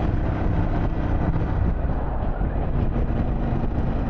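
Harley-Davidson Pan America Special's Revolution Max 1250 V-twin running steadily while riding, mixed with steady wind noise.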